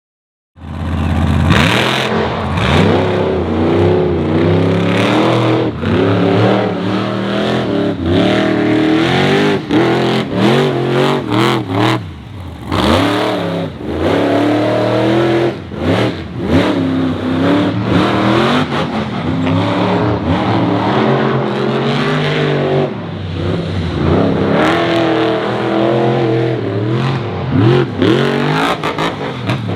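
Monster truck engine revving hard, its pitch repeatedly climbing and dropping as the throttle is worked. It starts after about half a second of silence.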